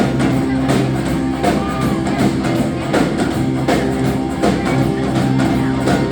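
Live rock band playing: held guitar chords over a steady drum beat, a hit about every three quarters of a second.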